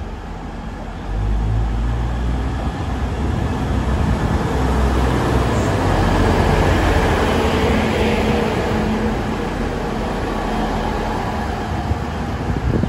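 Hunter railcar diesel multiple unit pulling out of the platform and passing close by, with a low diesel engine rumble and rail wheel noise. It gets louder about a second in, is loudest midway as the cars go past, then eases slightly as the train moves away.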